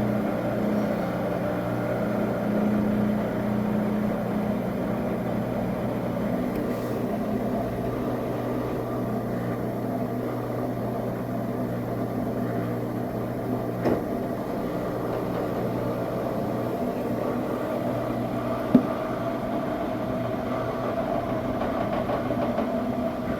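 Washing machine running mid-cycle, a steady motor hum with a few held tones. About 14 s in the lowest part of the hum drops away with a small click, and a single sharp click follows a few seconds later.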